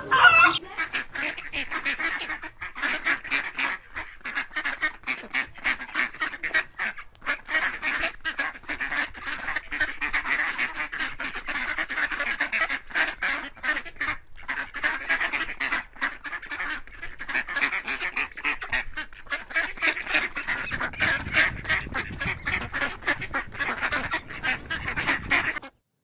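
A flock of waterfowl calling in a dense, continuous chorus of many overlapping calls, cutting off suddenly near the end.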